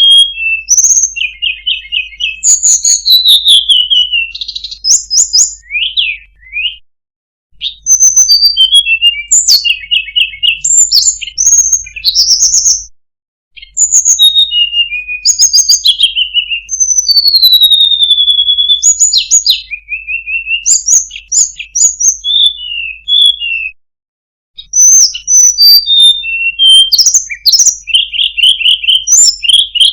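A tledekan gunung (Sunda robin) singing in long, varied phrases of quick repeated-note trills, falling whistles and sharp chips, with brief pauses between bursts.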